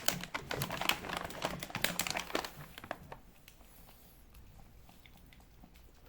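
Crinkling and crackling of the opened cat-treat packaging, a dense run of crackles for about three seconds that then thins to a few faint clicks.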